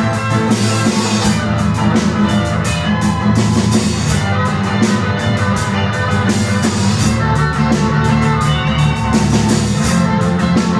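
Live rock band playing, with guitar and a steady drum kit beat.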